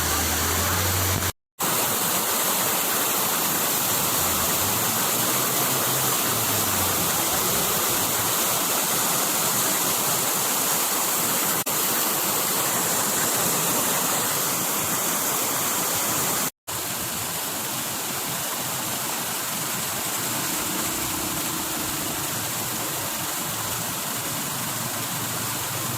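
Waterfall, a steady rush of falling water, broken twice by brief cuts to silence and a little quieter after the second cut.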